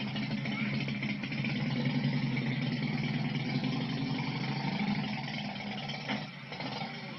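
Motorcycle engine idling steadily, falling away about six seconds in.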